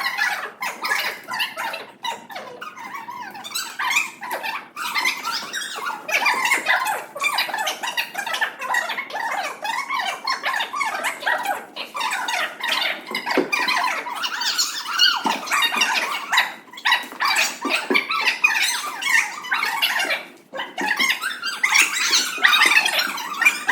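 A group of schoolchildren chattering and calling out over one another, a continuous jumble of young voices with frequent short clicks and knocks.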